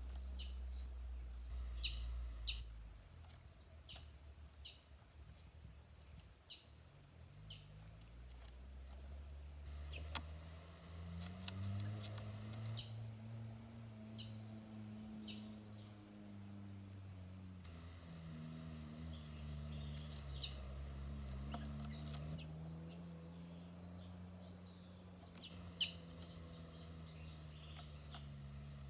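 Birds chirping: many short, high calls scattered through the whole stretch, over a low hum that slowly rises and falls in pitch.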